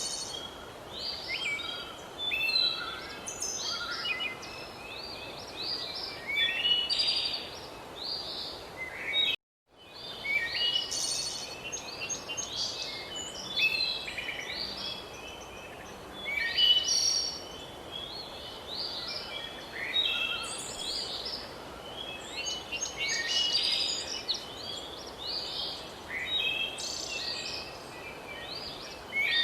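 Several birds chirping and singing, with many short, overlapping calls and trills over a faint steady background hiss. The sound cuts out completely for about half a second about a third of the way in, then resumes.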